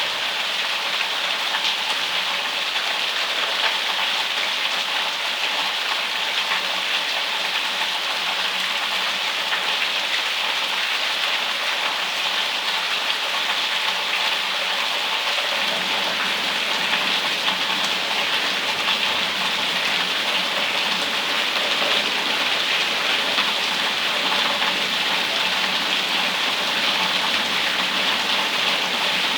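Rain pouring down steadily, a dense even hiss of drops; about halfway through the sound gets a little fuller and deeper.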